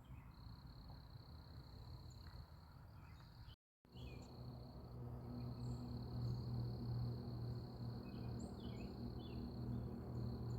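Evening insect chorus: a steady high trill, with scattered short bird chirps over it. A brief gap of silence about a third of the way in, after which a low hum sits more strongly under the chorus.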